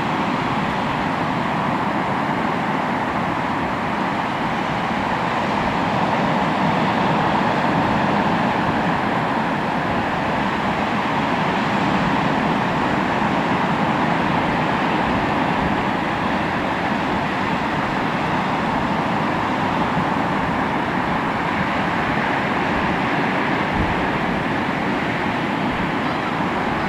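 Sea waves washing onto the shore: a continuous surf wash that swells and eases slowly, a little louder a few times.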